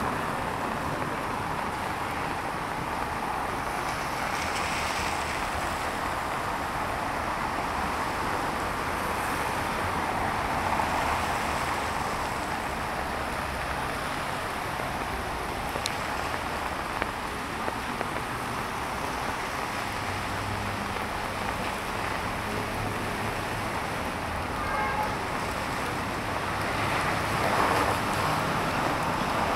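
Steady rain falling on a city street, with cars driving on the wet road.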